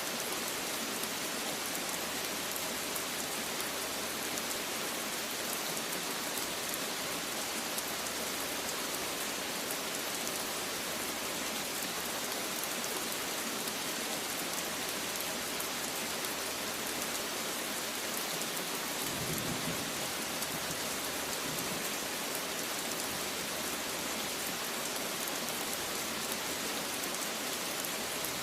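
Steady rain falling on a surface, a dense even hiss speckled with fine drop ticks. A brief low rumble rises and fades about two-thirds of the way through.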